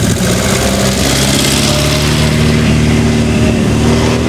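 Old cars' engines running at low speed as they drive past one after another, a steady engine note without revving.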